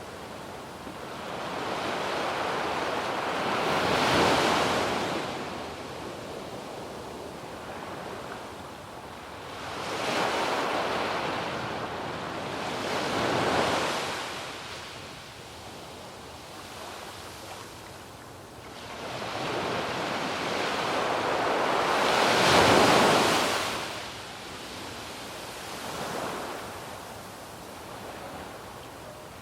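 Sea waves breaking on a sandy beach, each wave swelling to a rush of surf and washing back, about five times, the loudest near the end of the second third. Light wind on the microphone underneath.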